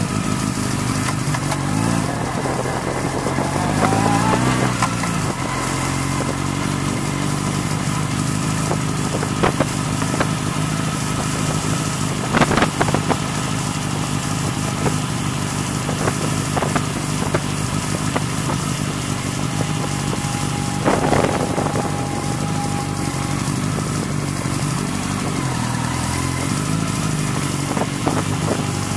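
Motorbike engine running as it is ridden, rising in pitch as it speeds up about three to five seconds in and again near the end. A few short sharp clicks or knocks sound over it, the loudest in the middle.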